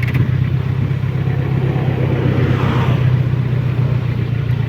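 Suzuki Bandit motorcycle engine running steadily at low revs, with a brief swell of hiss about halfway through.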